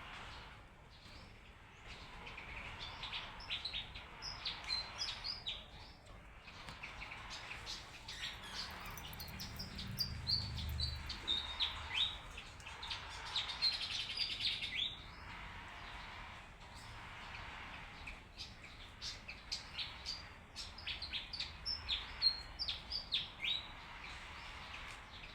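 Many birds chirping and calling together, a dense run of short, quick down-slurred chirps overlapping one another, with a brief low rumble about ten seconds in.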